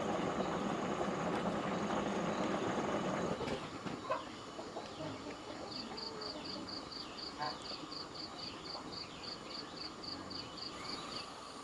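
A motor running steadily that stops about three and a half seconds in, leaving birds chirping, with a rapid run of high pips at about four a second and a few faint clicks.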